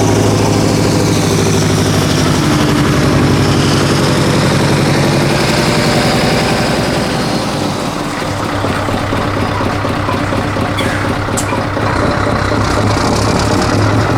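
Scania 164L 480's V8 diesel engine running with a deep, pulsing note. It eases off a little about halfway and picks up again near the end.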